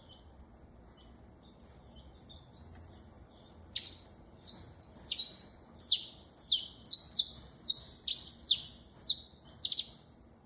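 Saffron finch singing: a single high note about a second and a half in, then from about four seconds a fast run of sharp chirps, about two a second, each dropping in pitch.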